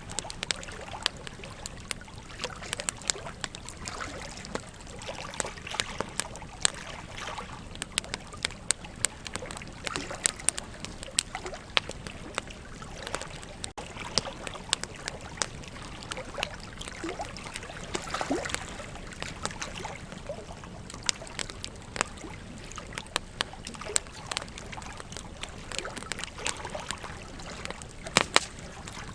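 Wood fire crackling, with frequent sharp pops and snaps, over the steady trickle and splash of a river.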